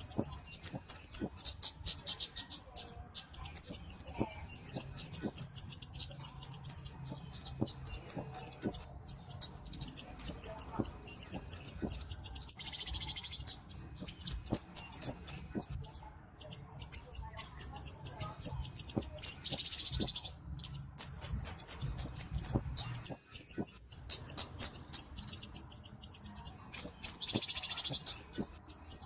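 Flowerpecker (cabe-cabean) singing: rapid strings of very high, thin chirps in bursts of one to three seconds, with short pauses between them.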